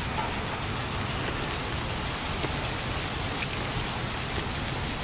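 Ground beef frying in vegetable oil in a pan, a steady sizzle with faint crackles.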